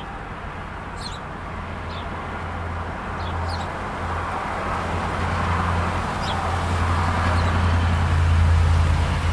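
Road traffic with a steady low rumble, growing louder as a vehicle approaches and passes near the end. Brief high-pitched chirps of small birds come through several times.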